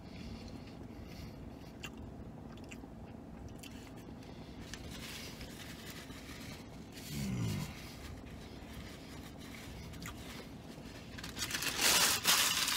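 A man chewing a mouthful of burger in a small car cab, with faint wet mouth clicks. He gives a short hummed "mmm" about seven seconds in. Near the end, paper rustles and crumples loudly.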